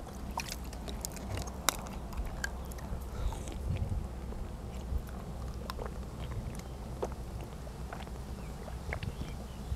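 A person chewing and eating close to a clip-on microphone, with scattered small sharp clicks and taps, the sharpest about two seconds in.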